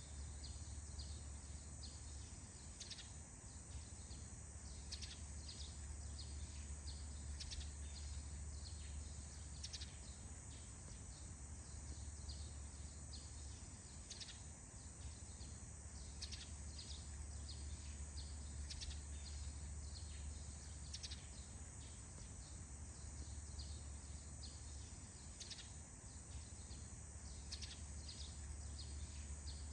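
Forest morning ambience: many short bird chirps scattered throughout, over a steady high-pitched drone and a low steady hum.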